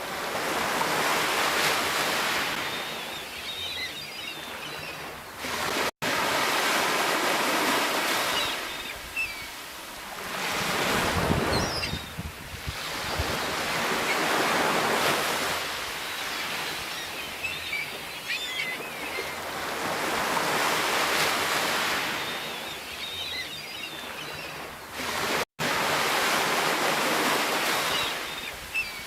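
Sea waves breaking and washing ashore, the surf swelling and falling away every few seconds. The sound cuts out for an instant twice.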